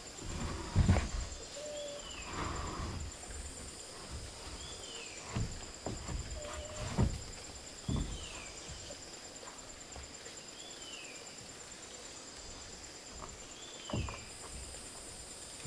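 A bird repeats a short, falling call about every three seconds over a steady high insect drone. Occasional knocks and thumps break in, the loudest about a second in and near the end.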